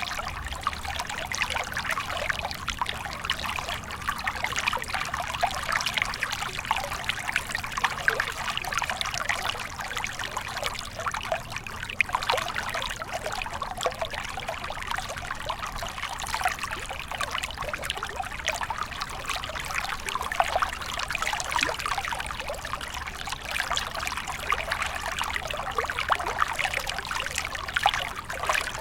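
Small stream of water trickling and splashing steadily, with many small bright splashes.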